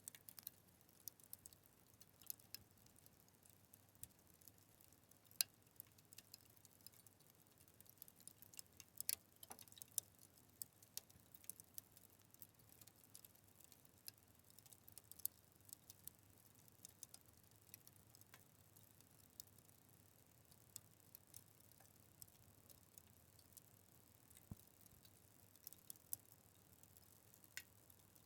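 Quiet crackling fire in a fireplace: irregular sharp snaps and pops, a few each second at uneven spacing, over a faint hiss.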